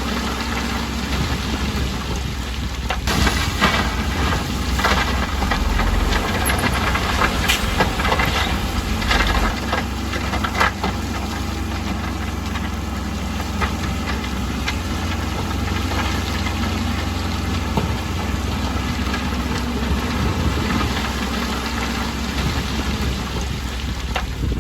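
Bulldozer's heavy diesel engine running steadily, with a run of sharp knocks and clanks in the first half.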